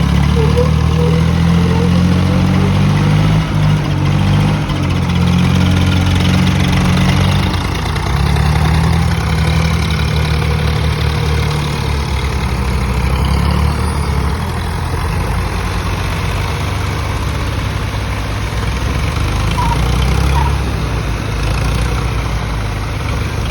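Swaraj 855 tractors' diesel engines running hard and loud under load in a tug-of-war, the engine note shifting several times in the first half.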